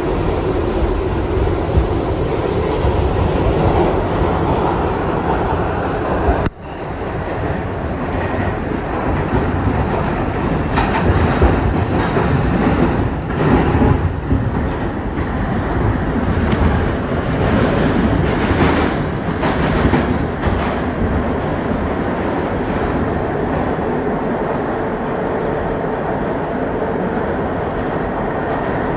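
Kawasaki R62 subway train running along the track, wheels rumbling steadily on the rails. The sound drops out sharply for a moment about six and a half seconds in. From about eleven to twenty-one seconds in, bursts of clickety-clack come as the wheels pass over rail joints.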